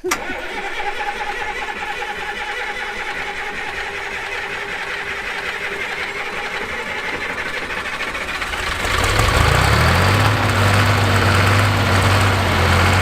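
1968 Atlas excavator's engine cranked by its starter, a steady sound for about nine seconds, then catching, rising in pitch and settling into a steady idle.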